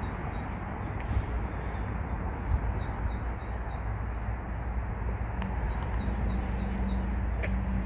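A bird chirping in runs of quick high notes, about three a second, over a steady low outdoor rumble.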